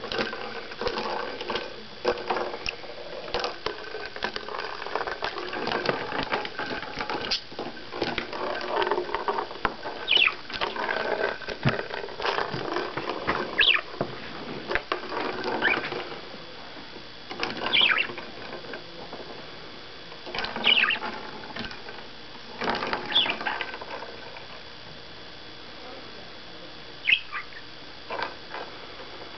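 Pet budgie playing with a small ball: many quick clicks and taps, busiest in the first half, with about eight short high chirps that drop in pitch, spread through the second half.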